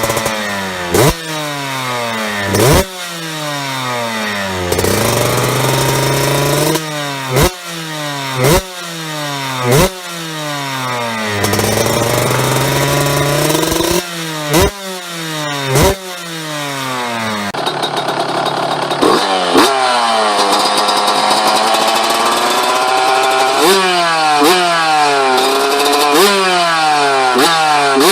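Yamaha YZ125 two-stroke engine with an aftermarket exhaust, revved over and over in sharp blips. Each blip jumps up and then falls back toward idle, and there are a few slower, longer rises in revs. A little over halfway through, the sound changes to another bike, which holds a higher, steadier idle between quick blips.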